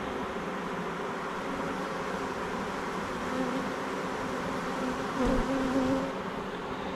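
Honeybees buzzing around an open hive, a steady hum. From about halfway in, a single bee's buzz comes up close and louder for about three seconds, dipping in pitch once before fading back into the swarm.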